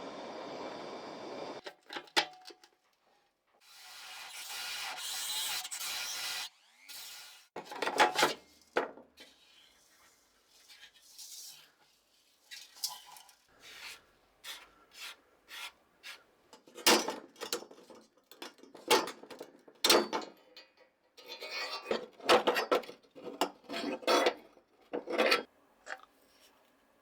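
Hand work at a workbench: rubbing and scraping with short hisses, then a long run of irregular knocks, clinks and scrapes as parts are handled and worked.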